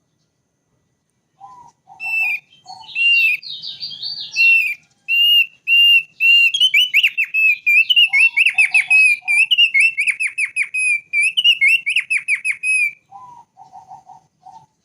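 Thick-billed white-eye (opior paruh tebal) singing: a long, fast run of clear whistled notes with quick trilled stretches in the middle, starting after a short pause. Groups of three or four short, lower notes come in at the start, in the middle and near the end.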